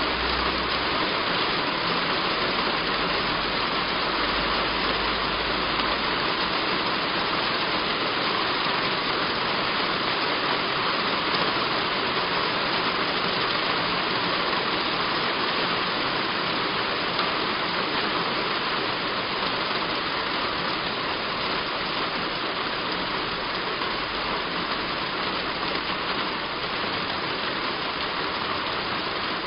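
Heavy rain falling steadily on a roof, an even hiss of water throughout. A low rumble sits underneath for the first few seconds and again briefly near the end.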